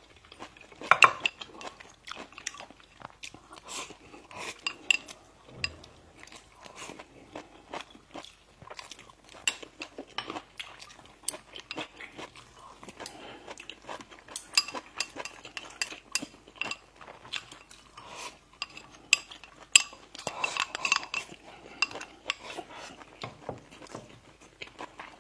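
Close-miked eating of bread and pastries: bites and chewing with many small sharp clicks and crackles, busiest about a second in and again in the last few seconds.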